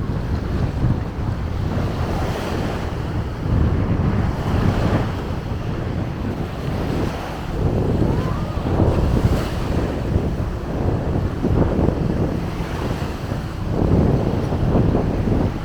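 Sea waves breaking and washing up on a beach, with wind buffeting the microphone in a steady low rumble.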